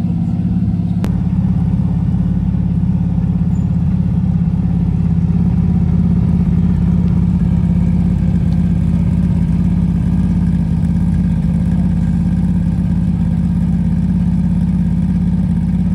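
Aston Martin Vantage AMR GT3 Evo race car's engine idling loudly and steadily, with a single sharp click about a second in.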